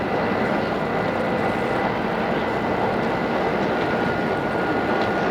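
Odakyu 2600 series electric train running, heard from inside the car: a steady rumble of wheels on rail with a faint, steady high whine over it.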